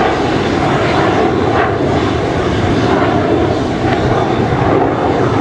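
Kawasaki EC-1's twin JT8D turbofan jet engines running at take-off power: a loud, steady jet roar.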